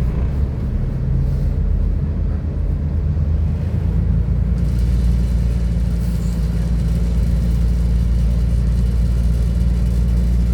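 Class 172 diesel multiple unit heard from inside the carriage: the underfloor diesel engine's steady low drone with running noise. About four seconds in the engine note deepens and gets louder, and it stays so.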